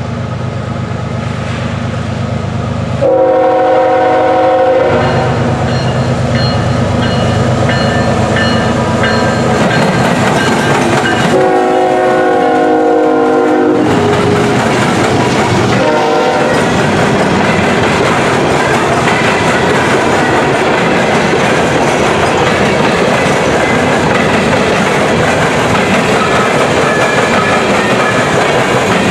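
CSX coal train led by GE ES44 diesel locomotives: the lead engine's air horn sounds a long blast about three seconds in, another long blast around eleven seconds and a short one near sixteen seconds. The locomotives then pass and the empty coal cars roll by with a steady clickety-clack of wheels over the rail joints.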